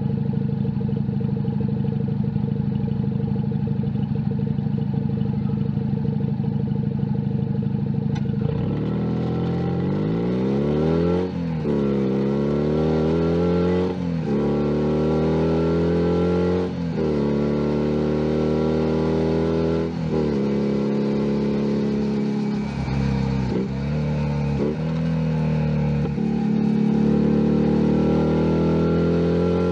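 Junak M11 Cafe 125cc motorcycle engine idling steadily for about eight seconds, then pulling away and accelerating through the gears, its pitch rising and dropping back with each of about four upshifts, then easing and picking up speed again near the end.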